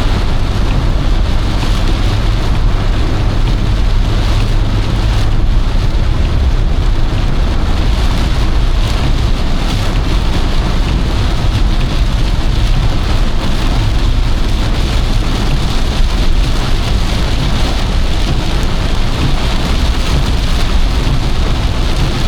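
Torrential rain drumming hard and steadily on a car's roof and windscreen, heard from inside the moving car, over a constant low rumble.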